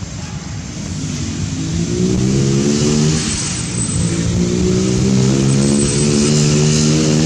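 An engine revving: its pitch climbs, eases off, then climbs again and holds high.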